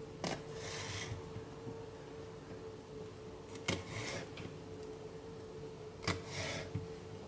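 Kitchen food preparation: three sharp knocks, each followed by a short scraping rasp, about two and a half to three seconds apart, over a faint steady hum.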